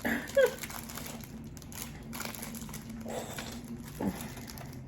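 Plastic fortune-cookie wrapper crinkling in scattered light crackles, with a short vocal sound about half a second in.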